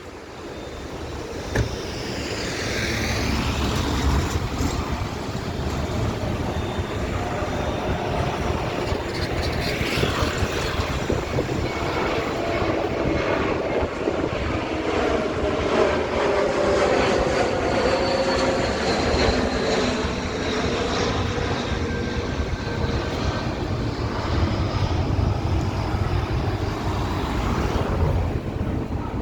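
Airbus A321 twin-engine jet airliner on final approach passing low: the engine noise swells over the first few seconds and stays loud, with a whining tone through the middle and a deep rumble underneath.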